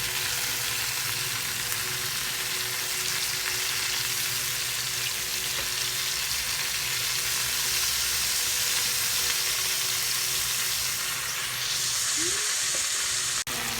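Chicken frying with a steady sizzle, cut off for an instant near the end.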